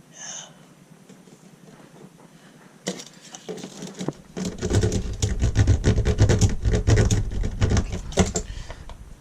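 Crinkling, scraping and rubbing of a bitumen sound-deadening mat being handled and pressed into place, starting about three seconds in, with dull thumps through the middle.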